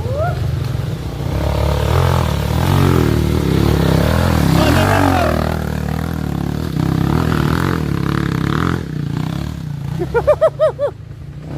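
Motocross bike engines running and revving, their pitch rising and falling as the bikes ride the track. Near the end comes a quick series of short, sharp rising-and-falling blips.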